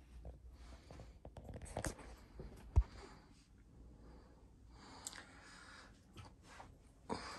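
Quiet small room with scattered light rustles and clicks of handling and movement, and one dull thump about three seconds in.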